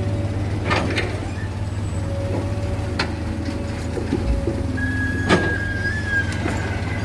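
Heavy diesel machinery running steadily with a low drone, broken by scattered metallic clanks and knocks, and a high-pitched squeal from about five seconds in.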